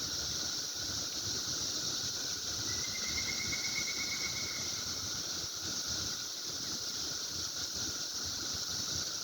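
Steady, high-pitched buzzing chorus of insects in the background. A shorter, lower pulsed trill joins about three seconds in and lasts about two seconds.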